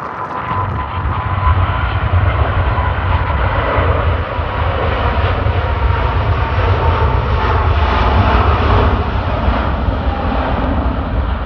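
Jet airliner passing close by: loud engine rush and deep rumble that swells, peaks about eight seconds in, then begins to ease off.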